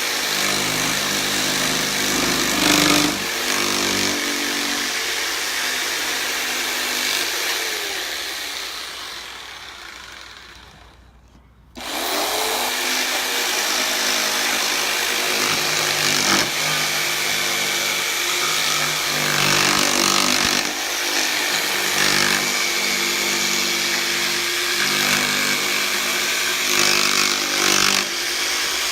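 Electric jigsaw cutting a wooden board, running steadily. About eight seconds in it is let off and winds down to a brief silence, then it starts up again just before the halfway point and cuts on.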